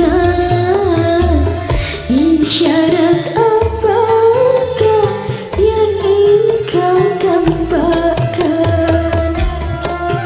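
A voice singing a melody with gliding, ornamented notes over a karaoke backing track with bass and steady hand-drum percussion.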